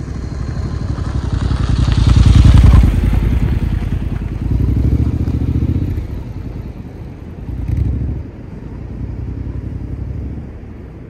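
Honda NC750X parallel-twin motorcycle engine running, its sound swelling loudest about two seconds in, then rising and falling again several times.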